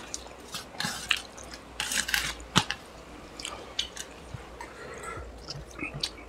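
Close-up eating sounds: wet chewing and lip smacking of rice and chicken curry eaten by hand, with fingers squishing rice in the curry. Scattered sharp clicks and ticks, one louder near the middle.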